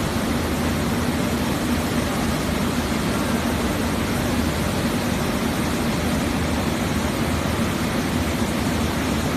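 Maize milling machinery running steadily: a constant mechanical drone with a hiss, unchanging in level throughout.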